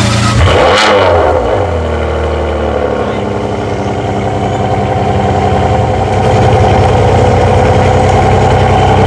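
Ferrari 599 GTB HGTE's V12 engine flaring once right after start-up, pitch rising and falling within about a second, then settling into a steady idle that grows a little louder about six seconds in.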